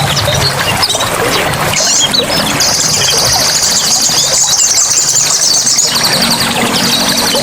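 Forest soundscape of running water with many birds chirping and whistling, and a rapid high trill that starts a few seconds in, breaks off about a second before the end, and starts again.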